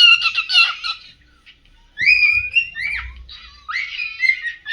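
Pearl cockatiel singing: a quick run of chirps, then after a short pause a string of whistled notes that swoop up and fall.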